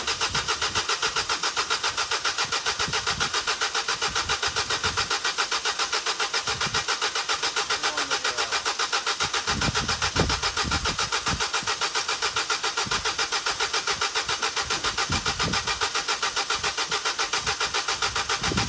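Vauxhall Corsa E petrol engine being cranked on the starter motor, a steady pulsing of about five beats a second that keeps going without the engine catching, with one louder beat about halfway through. The engine turns over but won't start, which the owner puts down to fuel not reaching the engine.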